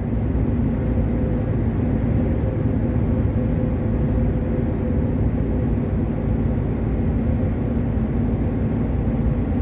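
Diesel truck engine running steadily at cruise with tyre and road noise, heard inside the cab.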